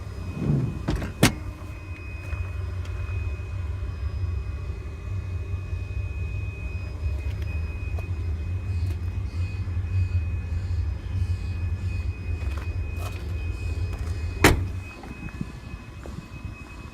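A steady low rumble, with a click about a second in. About 14 seconds in, a car door shuts with a sharp thud, and the rumble drops away after it.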